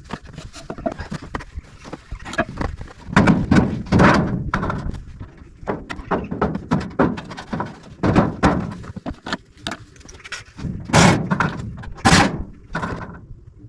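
Irregular knocks, thuds and rattles of a wall cladding sheet being worked out of its locking joint and pulled off, with two loud bangs near the end.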